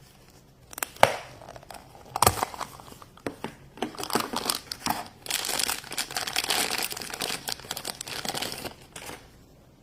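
A toy surprise package's wrapper being crinkled and torn open by hand. A few sharp snaps come in the first couple of seconds, then a long stretch of steady crackling as the wrapping is pulled apart.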